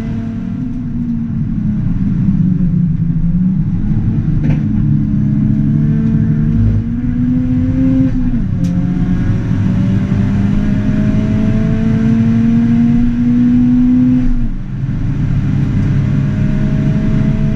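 Tuned Ford Fiesta ST's 1.6 EcoBoost turbocharged four-cylinder engine under hard acceleration, heard from inside the cabin. The engine note climbs steadily, drops back briefly about eight seconds in and again about fourteen and a half seconds in, then climbs again.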